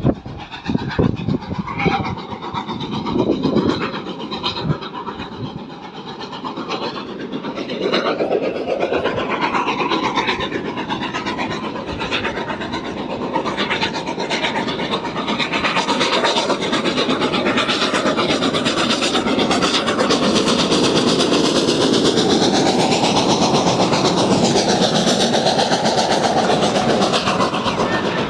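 Passenger train passing close by, its carriages rolling past with a clickety-clack of wheels over rail joints. Uneven at first, it settles into a steady, loud rumble about eight seconds in.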